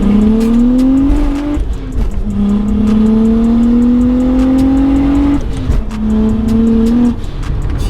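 BMW 335i's N54 inline-six, converted to a single turbo, pulling hard through the gears. The engine note climbs and drops at a shift about a second and a half in, then climbs for about three seconds to a second shift. It runs on briefly before letting off near the end.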